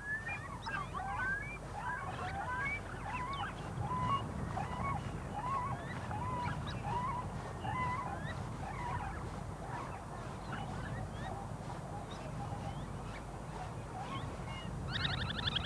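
Wild birds calling: many short chirping calls, repeated and overlapping, over a low steady rumble, with a harsher call rich in overtones near the end.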